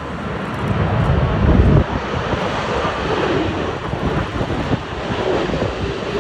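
Jet airliner engines running loud, mixed with strong gusty wind buffeting the microphone.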